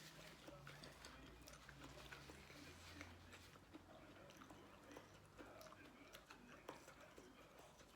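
Faint chewing with many small, irregular clicks and smacks: a person eating a spicy seafood papaya salad close to the microphone, over a low steady hum.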